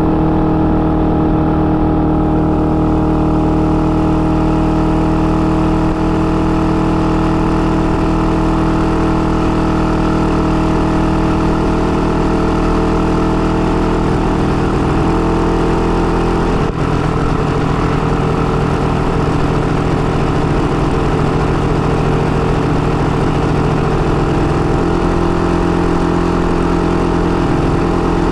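IZh-49 motorcycle's single-cylinder two-stroke engine running steadily while ridden, freshly rebuilt with an overbored cylinder and a 75 mm piston and being run in. About two-thirds of the way through there is a brief drop in sound and the engine note settles at a different pitch.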